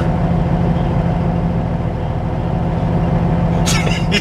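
Semi truck's diesel engine running steadily at a constant pitch, heard from inside the cab, with a brief hiss near the end.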